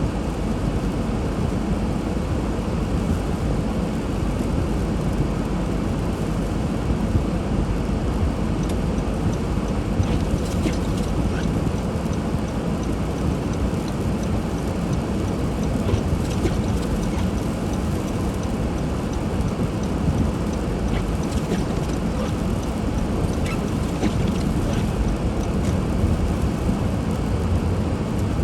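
Steady low rumble and hiss of a car driving on snow-covered streets, with a few faint clicks now and then.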